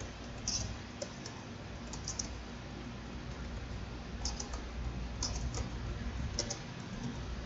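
Computer keyboard being typed on in short uneven runs of key clicks, over a faint steady hum.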